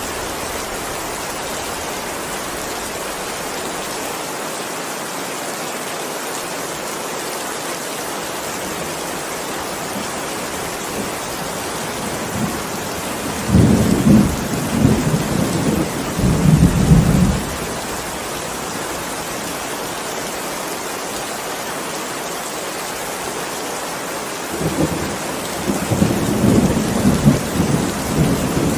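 Heavy rain falling steadily, with two low rolls of thunder: one rumbling for about four seconds around the middle, another building near the end.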